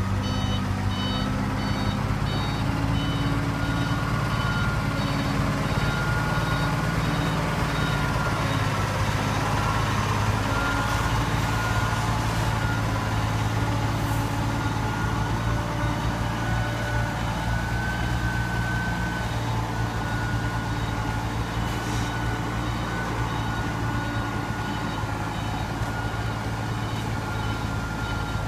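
Ten-wheel dump truck's diesel engine running steadily, with its backup beeper sounding a repeated high beep.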